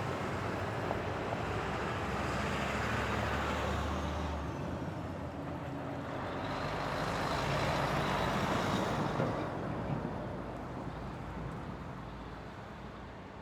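Road traffic ambience: vehicles, including a heavier one that pulls away in the first few seconds, passing on a curve. Another vehicle swells past around 8 to 9 seconds in, then the traffic fades.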